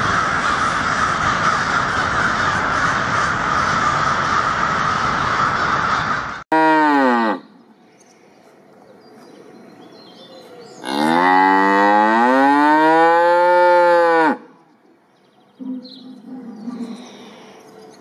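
A dense, loud din of screeching calls from a large flock of bats, cut off abruptly about six seconds in. Then cows mooing: one short moo, and a few seconds later one long moo that rises and then falls in pitch.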